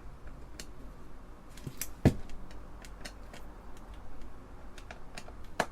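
Scattered small clicks and taps from hands and tools working on an Apple II Plus keyboard assembly, with a louder knock about two seconds in and another near the end.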